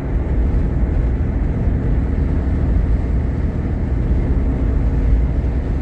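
Steady low rumble of tire and road noise with engine drone, heard inside a moving car's cabin.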